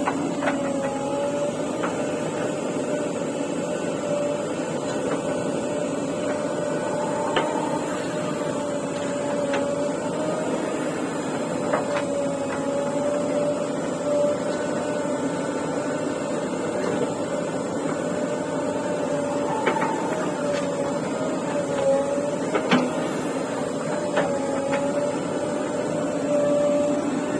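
A machine running steadily, with a slightly wavering whine and scattered clicks and knocks.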